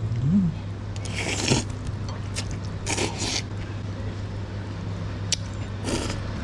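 Eating noises from a bowl of noodle soup being scooped with a spoon: three short scraping bursts with a few light clicks, over a steady low hum.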